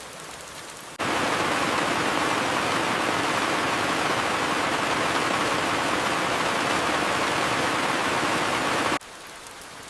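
Light, steady rain hiss, broken about a second in by a much louder, dense rush of rain-like noise that cuts in suddenly, holds steady, and cuts off just as suddenly about a second before the end, leaving the light rain again.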